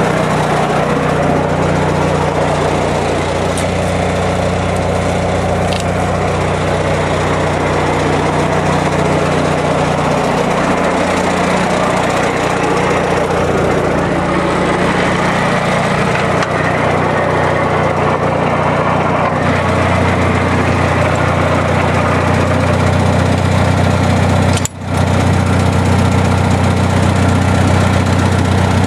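Old Massey tractor engine running steadily, its pitch shifting slightly a couple of times, with a brief dropout a few seconds before the end.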